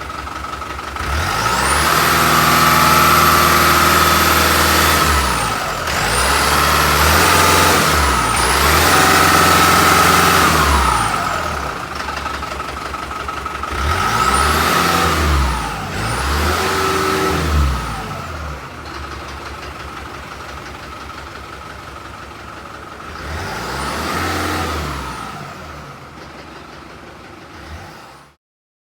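Truck engine revved up and back down repeatedly, about six rises and falls with steadier running between them, under a steady high whine. The sound cuts off abruptly near the end.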